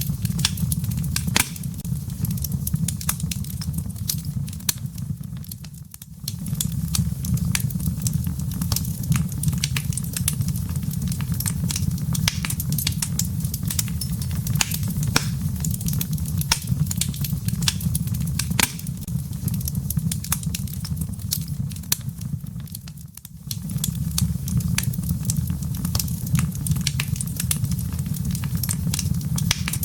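Wood fire burning in a fireplace: frequent sharp crackles and pops over a steady low rumble of the flames. The sound drops away briefly twice, about six seconds in and again near twenty-three seconds.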